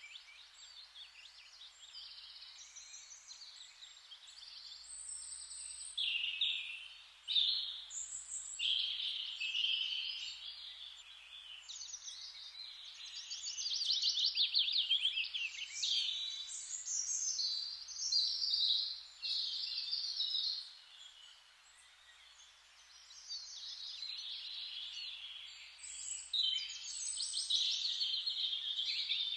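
Songbirds singing high-pitched phrases one after another, several voices overlapping, with a short lull about two-thirds of the way through.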